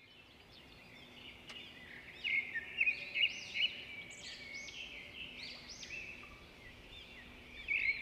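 Wild birds chirping and singing: a busy run of short, quick, arching notes over a faint outdoor background, getting louder about two seconds in.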